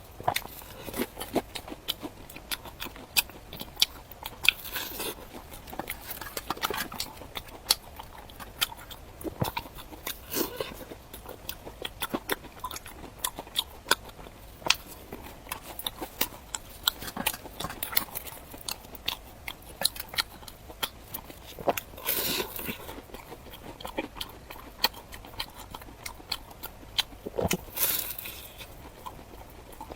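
Close-miked eating: biting and chewing, with many crisp mouth clicks and crunches and a few longer wet smacking or slurping noises near the end.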